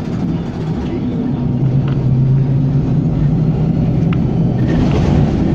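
W6 class tram running along the track, heard from inside: a steady low rumble with a low hum that strengthens about two seconds in, and a few faint clicks.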